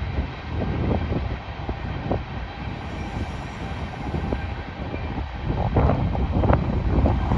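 BNSF freight cars rolling past at close range: a steady rumble of wheels on rail, with irregular clicks and clanks from the wheels and couplers.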